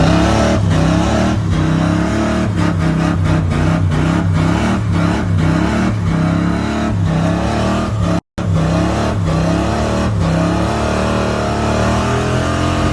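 Car engine revving hard and held at high revs, its pitch wavering up and down, with sharp crackles throughout. The sound cuts out for a moment about eight seconds in.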